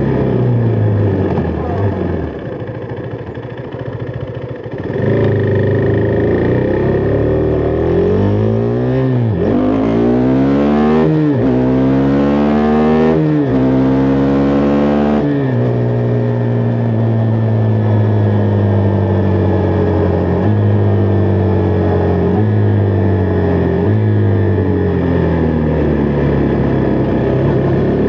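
Husqvarna Vitpilen 401's single-cylinder engine under way. It eases off and quietens a few seconds in, then accelerates through several gears, the pitch climbing and dropping back at each upshift. It then settles into a steady cruise with a few brief dips in pitch.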